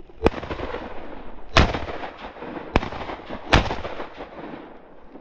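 Four shotgun shots about a second apart, the second and fourth fuller and louder than the sharper first and third, each trailing off in a rolling echo.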